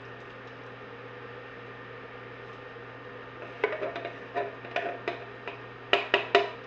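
A steady hum, then from about halfway a run of about ten sharp metallic clinks and knocks as a can of crushed tomatoes is knocked and scraped out into a sauce pan.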